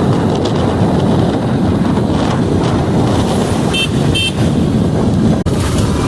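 Heavy truck engine and road noise rumbling steadily, with two short high-pitched horn beeps in quick succession about four seconds in.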